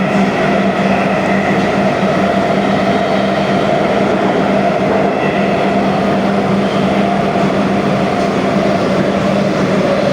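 Siemens Inspiro metro train running steadily, heard from inside the car: an even rolling rumble with a constant hum.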